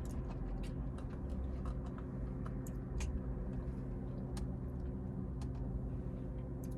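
Steady low hum with scattered faint, brief clicks and ticks.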